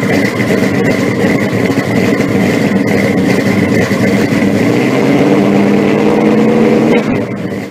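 A loud car engine running with rough exhaust, held at a steady speed, dropping away about seven seconds in.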